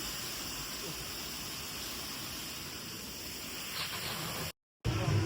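Steady hissing background noise of an outdoor scene with no clear source. It cuts off in a brief dead silence near the end, and louder music begins just after.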